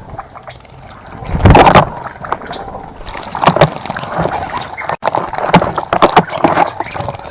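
A bird bathing in a shallow bird bath, splashing the water in repeated short bursts, the loudest about a second and a half in.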